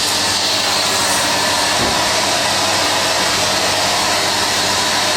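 Numatic Hetty vacuum cleaner running steadily, its motor giving a constant hiss of suction with a low hum underneath.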